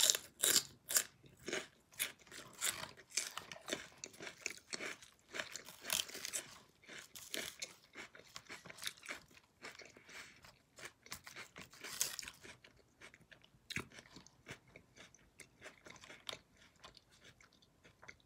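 Close-up chewing of crisp romaine lettuce salad: a rapid run of crunches that thins out and grows quieter after about twelve seconds.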